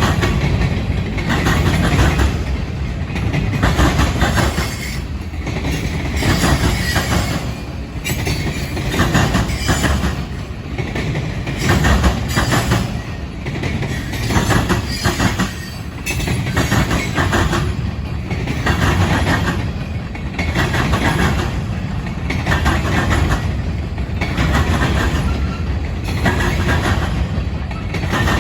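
Norfolk Southern freight cars rolling past at speed, their wheels clattering over the rail joints in a steady, repeating clickety-clack.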